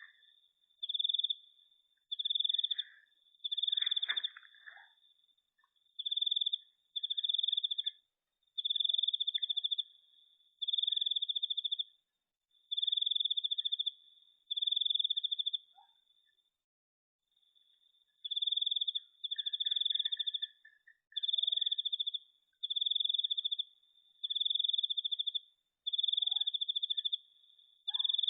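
A cricket chirping: a high trilled song in bursts of about half a second to a second, repeated roughly once a second, with a pause of a couple of seconds midway.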